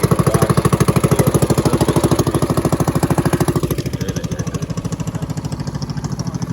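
Yamaha motorcycle engine idling just after a cold start, with a rapid, even putting of about nine beats a second. It gets somewhat quieter about four seconds in.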